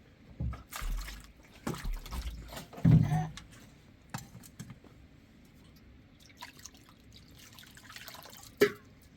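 Irregular drips and splashes of water with scattered knocks and thumps, the loudest about three seconds in and another sharp one near the end.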